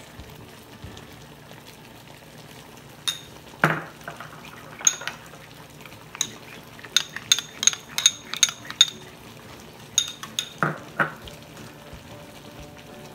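Metal utensil stirring and clinking against a cooking pan while seafood fries in butter and garlic. Sharp ringing clinks come singly, then in a quick run of about three a second around the middle, over a faint steady sizzle.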